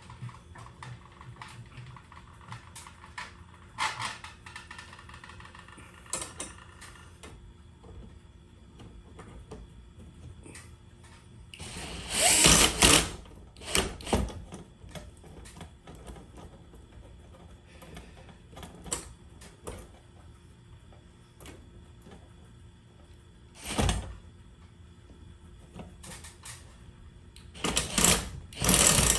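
Power drill run in several short bursts, with clicks and knocks of parts and tools being handled in between.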